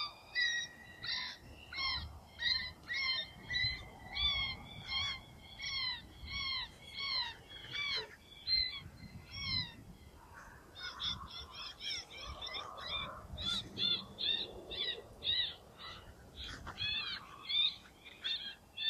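FoxPro electronic predator caller playing a distress call for coyotes: a steady string of high, arched squeals, about two a second, which stops briefly about ten seconds in and then resumes a little faster. Wind rumbles on the microphone underneath.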